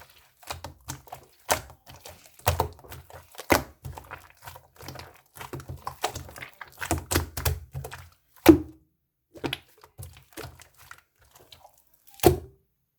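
Hands pressing and poking a cream-topped slime, making a quick run of small clicking pops and soft thumps. The loudest thumps come about eight and a half seconds in and near the end.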